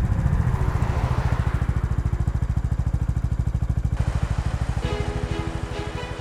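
Motorcycle engine running steadily under way, a loud even low pulse; music comes in about five seconds in as the engine sound fades a little.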